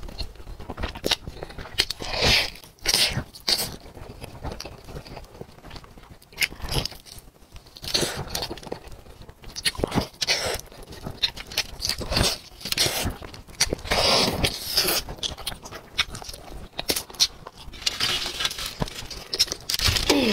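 Close-miked eating sounds: a whole roast chicken being torn apart by hand and chewed, in irregular bites and chews.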